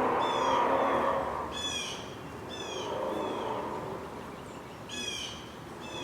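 A bird giving about five short, slightly falling calls at irregular intervals, over a steady outdoor background hum.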